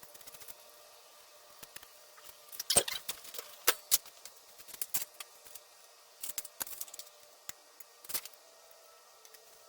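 Scattered sharp clicks and light clinks at an irregular pace, the loudest a little before three seconds in and just before four.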